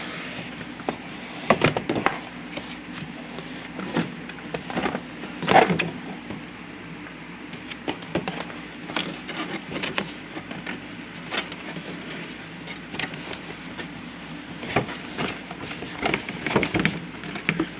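A cardboard model-car box and its packaging being opened and handled by hand: irregular rustling, scraping and small knocks, with a couple of louder knocks a second and a half and five and a half seconds in.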